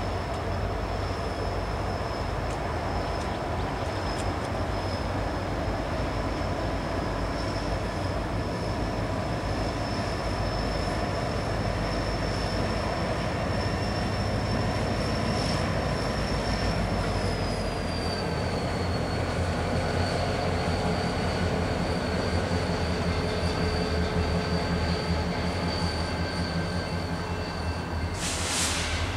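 Rocky Mountaineer train passing slowly: two diesel-electric locomotives rumble by, followed by their passenger coaches rolling on the rails. A steady high-pitched squeal runs over the noise and drops slightly in pitch a little past halfway.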